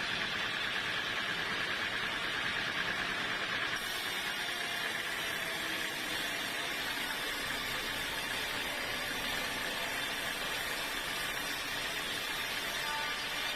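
Sawmill saw machinery running steadily, a constant noisy drone that neither rises nor falls.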